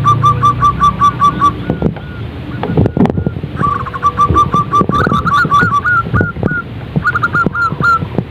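Zebra dove calling: quick runs of short, evenly spaced cooing notes, broken by a pause about two seconds in and followed by a few higher hooked notes.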